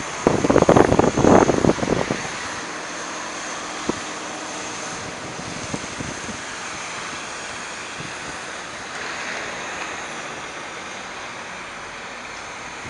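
Steady rush of wind and street traffic in a snowstorm. A louder, rough stretch of noise fills the first two seconds, there is a single sharp click about four seconds in, and the noise swells briefly around nine seconds.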